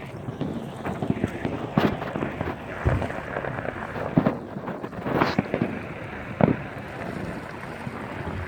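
Fireworks going off: a string of separate booming bursts, the loudest about two, five and six and a half seconds in, over a steady rushing noise.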